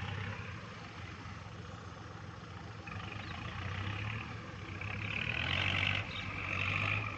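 Kubota MU4902 tractor's diesel engine running steadily, growing louder about five seconds in.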